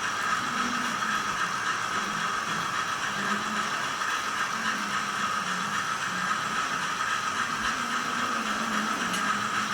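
Sound decoder of an SDS Models NR class HO model locomotive playing a diesel engine running sound through its small onboard speaker, steady and even.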